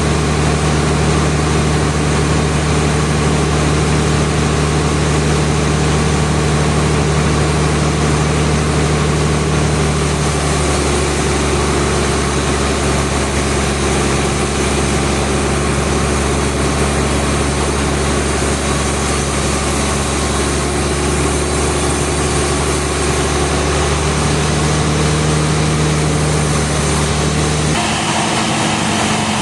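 Sawmill machinery running steadily with an engine-like hum. Its tone shifts about a third of the way in and changes again near the end.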